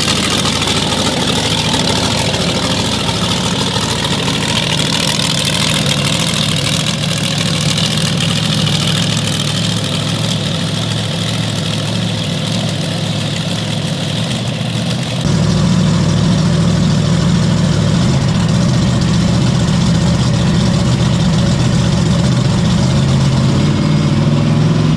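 Mega truck's large engine running steadily at idle, loud. About two-thirds of the way through, the sound jumps abruptly to a louder, deeper rumble.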